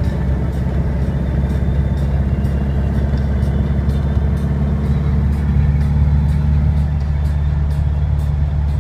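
Steady drone of a car's engine and road noise heard from inside the moving car, with music playing over it, its beat ticking about twice a second.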